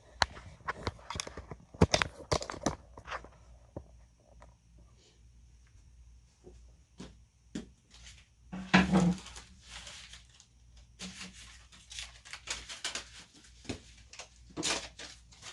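Hands handling small objects and packaging: a string of clicks, taps and crinkly rustles, with a louder rustle about nine seconds in.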